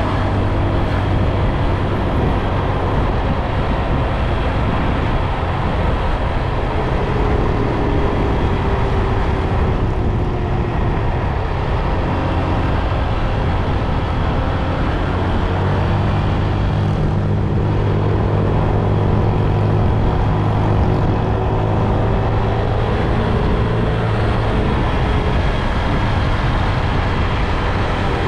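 Motorbike engine running while riding, with steady rushing road and wind noise; the engine note rises and falls gently a few times.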